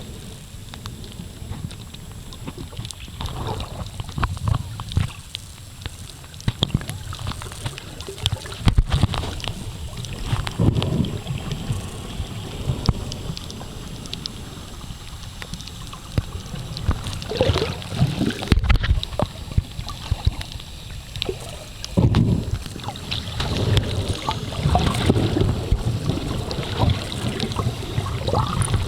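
Water sloshing and gurgling around a camera filming underwater, in irregular surges with occasional bumps.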